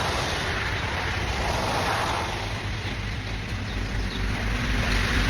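Heavy rain falling in a storm, a steady loud hiss, with wind rumbling on the microphone.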